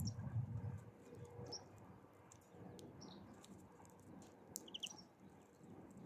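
A few short, high bird chirps at the feeder, with faint scattered clicks between them. A low rumble in the first second fades away.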